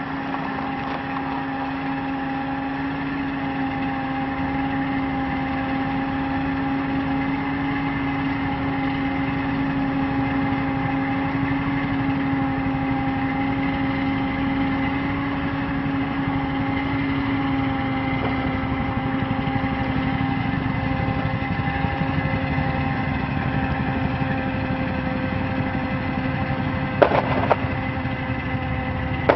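A vehicle engine running steadily at an even pitch, with a constant whine over it. There is a brief clatter near the end.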